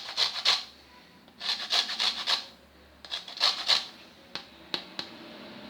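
A lemon rubbed against a hand grater to zest its peel: three bursts of quick rasping strokes, then a few light taps.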